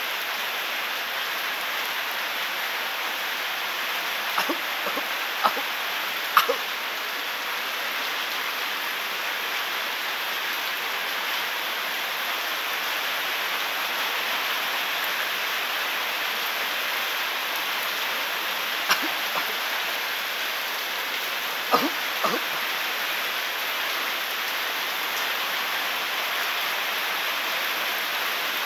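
Steady hiss of heavy rain, with a few sharp clicks and pops in a cluster a few seconds in and another about two-thirds of the way through.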